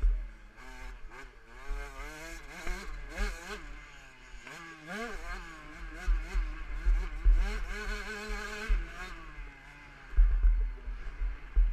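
KTM 65 SX two-stroke motocross engine revving up and down repeatedly as the rider accelerates and shifts around the track, with heavy low buffeting on the microphone.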